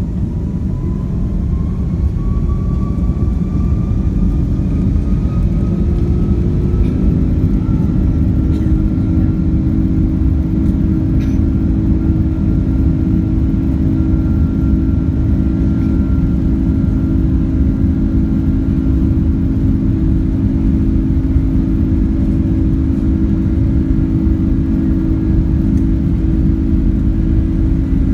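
Airbus A330-200 jet engines heard from inside the cabin: a whine rising in pitch over the first several seconds, then holding a steady drone over a loud low rumble, as thrust comes up for takeoff.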